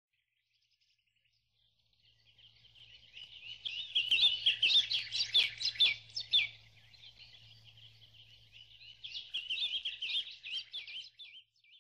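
Birdsong: rapid, high, warbling chirps that build up, are loudest a few seconds in, ease off, and swell again before stopping near the end.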